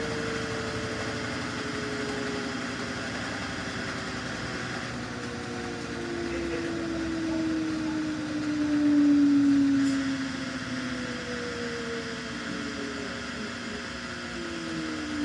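Samsung washing machine running its drum motor, a whine that slides down in pitch several times over a steady hum, loudest about nine seconds in.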